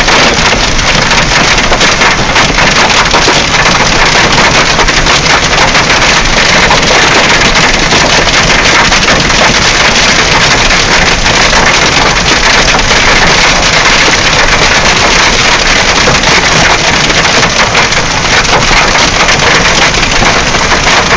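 Hail pelting a moving car's roof, hood and windshield, heard from inside the car: a loud, steady, dense clatter of countless small impacts.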